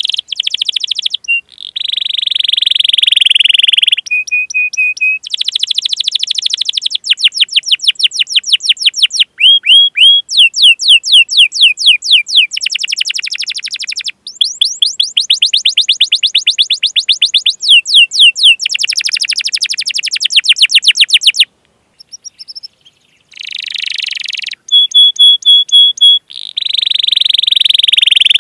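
Domestic canary singing a long song: fast runs of sliding chirps alternating with sustained buzzing rolls, broken by a few short pauses.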